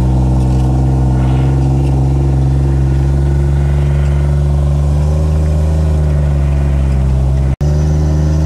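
Gator utility vehicle's engine running at a steady speed as it drives along, with a brief cut in the audio about seven and a half seconds in.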